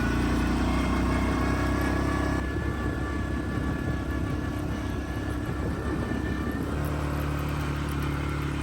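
Four-wheeler (ATV) engine running steadily while riding, its note shifting about two and a half seconds in and again near the end as the speed changes.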